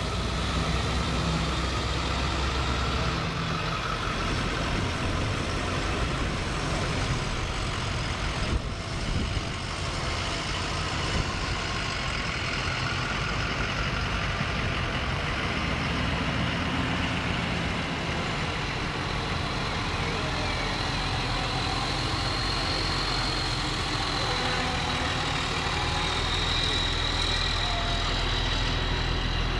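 Fire trucks' engines running with a steady low rumble. There is a brief dip about a third of the way in and a faint high tone in the later part.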